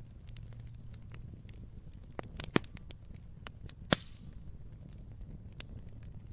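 Wood fire crackling: scattered sharp pops and snaps over a low steady rush, the loudest pop about four seconds in.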